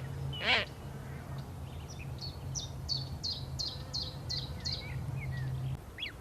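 Bird calls: one loud, harsh call about half a second in, then a run of short, high chirps repeated about three times a second.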